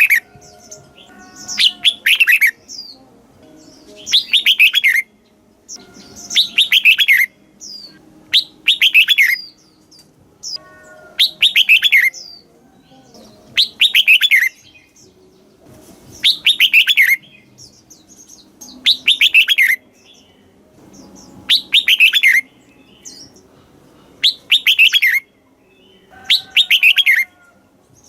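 Red-whiskered bulbul singing, repeating a short phrase of quick falling notes about every two seconds, a dozen or so times.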